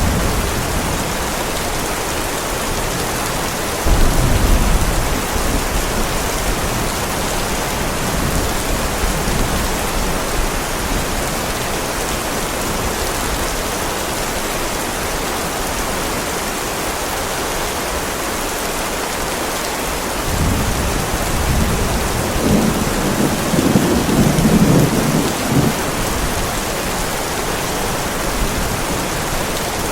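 Heavy rain falling steadily on a driveway, with a short roll of thunder about four seconds in and a longer rumble of thunder from about twenty seconds in.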